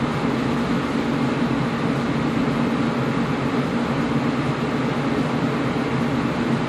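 Air conditioner running with a steady, even hum and airflow rush, strongest low down, unchanging throughout.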